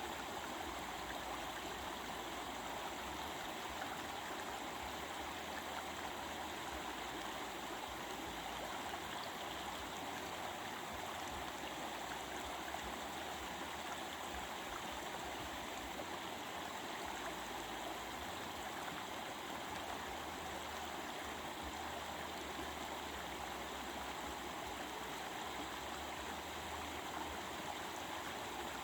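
Stream water running steadily: an even, unbroken rush and babble with no change in level.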